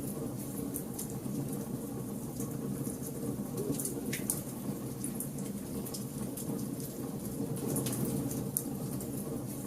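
Bonfire burning: a steady low rush of flame with scattered sharp crackles and pops from the burning wood.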